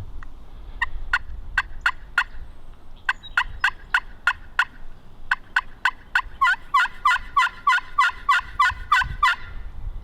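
A long run of turkey yelps: short, sharp, downward-sliding notes, spaced out at first, then coming faster and closer together for the last few seconds before they stop.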